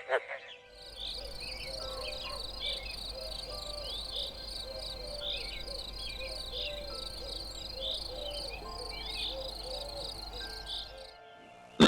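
A chorus of chirping animal calls: rapid, repeated high chirps with shorter, lower calls mixed in over a low steady hum. It starts about half a second in and breaks off about a second before the end.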